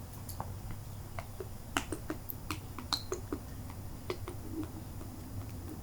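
Light, irregular clicks and taps of objects being handled on a table, a dozen or so spread over several seconds with no steady rhythm.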